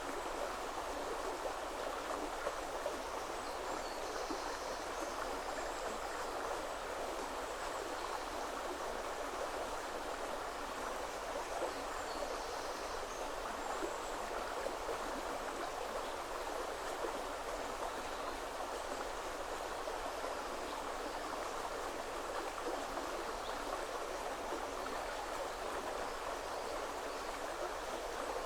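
Woodland river flowing steadily over its bed, a continuous even rush of water.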